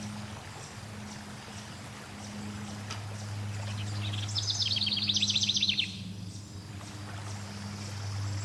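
Flowing water running steadily over a low, even hum, with faint scattered bird chirps. About four seconds in, a songbird sings a fast trill of repeated high notes lasting about a second and a half.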